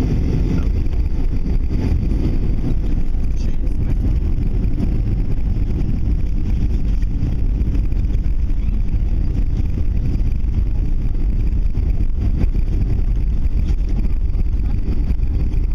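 Airbus A321 cabin noise during landing: a steady, loud low rumble of the engines and airflow heard from inside the passenger cabin.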